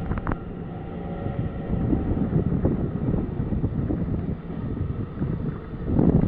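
Taiwan Railway diesel-hauled freight train passing: a steady low rumble of locomotive engines and wheels on the rails, with scattered knocks and a swell near the end.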